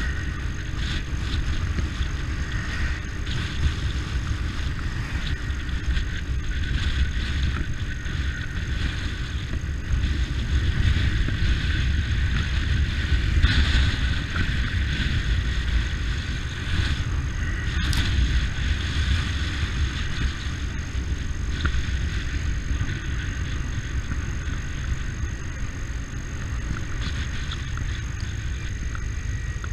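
A vehicle engine running steadily with a low rumble, mixed with road noise. There is one sharp click about two-thirds of the way through.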